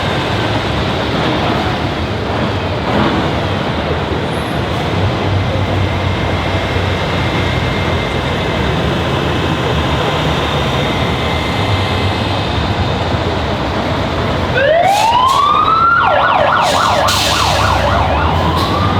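Low vehicle engine rumble and general street noise, then about three-quarters of the way through a siren sounds: it rises in pitch, switches to a fast warble, and rises again near the end.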